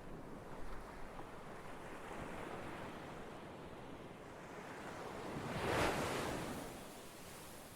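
Ocean waves breaking on a shore: a steady wash of surf, with one wave building to a louder crash just before six seconds in and then fading back.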